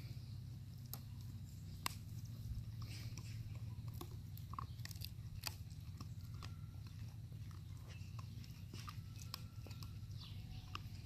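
Puppies chewing and gnawing, with many scattered small clicks and a few faint short high squeaks, over a steady low hum.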